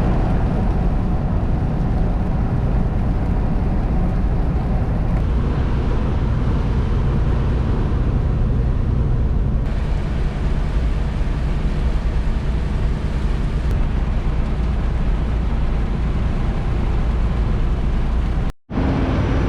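Steady engine and road noise of a 2020 Freightliner semi truck on the move, heard from inside the cab: a continuous low rumble under a broad hiss. It breaks off briefly near the end.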